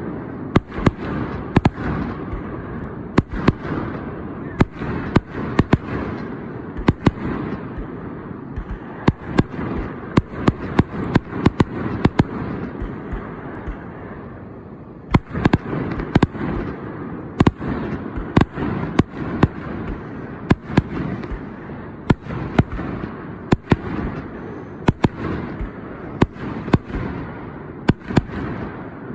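Fireworks display: a dense string of sharp bangs at irregular intervals, several close together at times, over a continuous rumble. The bangs thin out briefly about halfway through.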